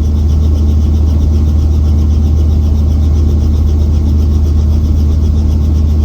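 Small helicopter in flight: steady engine and rotor noise, a loud low drone with a fast even flutter.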